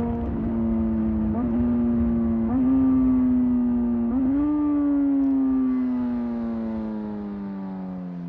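Motorcycle engine on the move. Its note jumps up briefly about three times in the first four seconds, as on downshifts, then falls steadily as the bike slows on engine braking.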